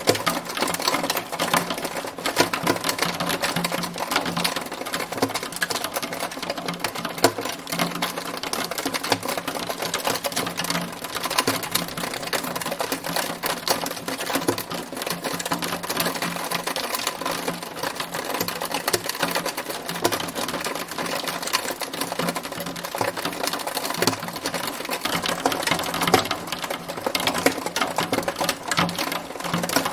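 Hailstones hitting a hard surface, a dense, continuous clatter of small impacts.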